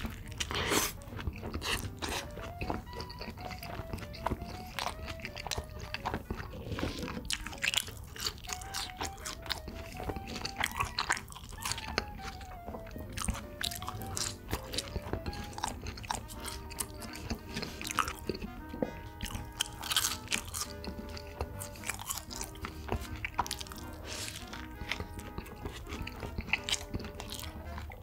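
Close-miked eating sounds of a cheeseburger: crunchy bites and chewing, many sharp crunches throughout. Light background music with a simple wandering melody plays underneath.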